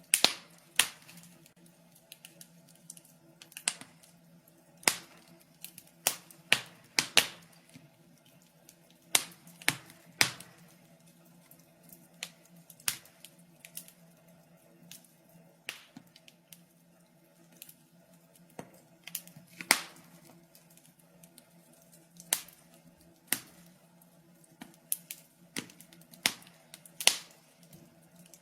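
Wood fire crackling in a fireplace: irregular sharp pops and snaps, a few louder ones every second or so, over a faint steady low hum.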